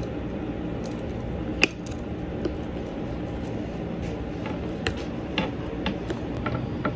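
Clear plastic parts of a Mamme Hush wearable breast pump being handled and pressed together, giving light plastic clicks and taps. The sharpest click comes about a second and a half in, and a run of smaller ones follows in the second half, over a steady background hum.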